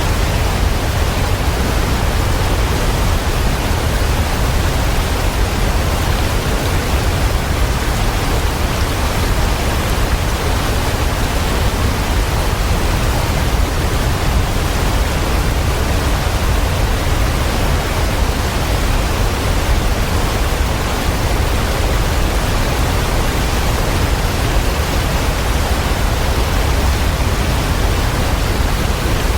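Waterfall: water rushing in a steady, unchanging hiss, heaviest in the low end.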